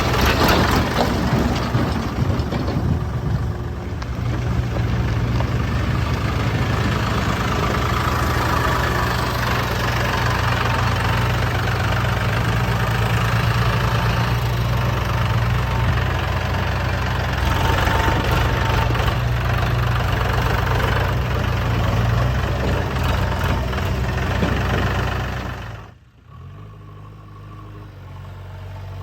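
Diesel engines of a backhoe loader and tractors running steadily with a low engine note. Near the end the sound drops suddenly to a quieter running engine.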